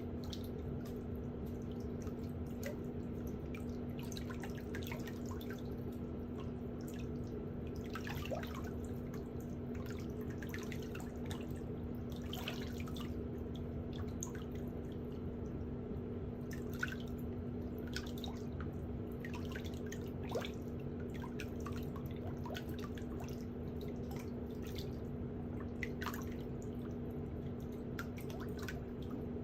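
Water dripping with scattered small splashes and ticks over a steady low hum.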